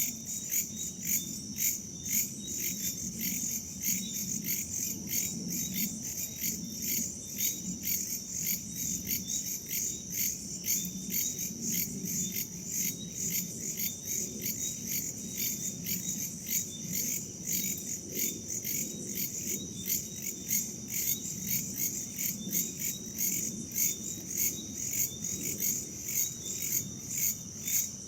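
Crickets and other insects chirping in a steady chorus, a high continuous trill with a pulsing chirp about twice a second, over a low rush of wind.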